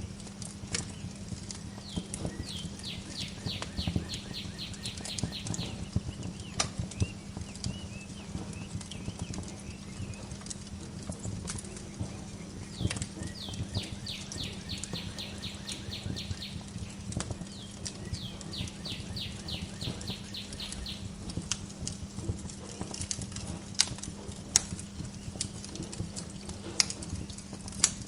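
Wood fire crackling with irregular pops and snaps over a low steady hum. A songbird sings three trills of quick, evenly repeated high notes: one a few seconds in, and two back to back in the middle.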